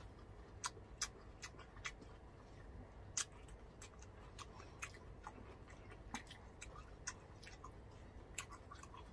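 Close-miked eating sounds: chewing of grilled food with scattered sharp mouth clicks and smacks, about two a second at irregular spacing, over a faint low hum.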